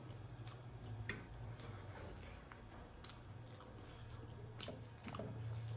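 Close mouth sounds of chewing steamed momo dumplings, with a few sharp clicks of a metal fork against the plate, over a steady low hum.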